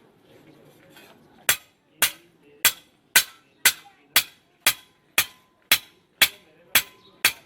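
Blacksmith's hand hammer striking metal in a steady rhythm, about two blows a second, starting about a second and a half in.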